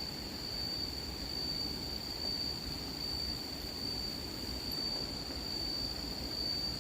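A steady, high-pitched insect trill, typical of crickets, holding one unbroken pitch over a low, even rumble of outdoor ambience.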